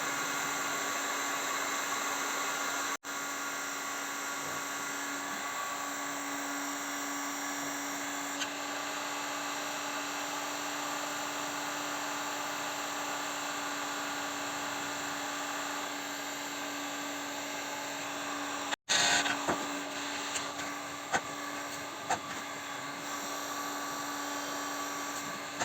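Steady whine and hiss of a heating tool running continuously on an aluminium engine pulley, heating it to free it from the shaft. A few light clicks near the end.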